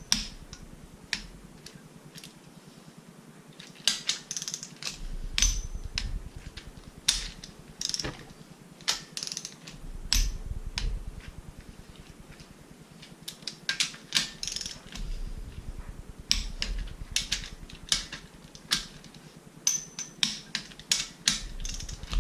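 Ratchet wrench clicking in quick runs with short pauses between them, with low knocks of the tool working on the bolts. It is tightening down the end-plate bolts of a Mazda 13B rotary engine.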